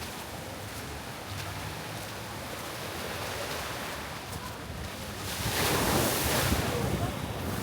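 Ocean surf washing onto the shore, a steady rush with one wave breaking louder about five seconds in and fading back down near the end.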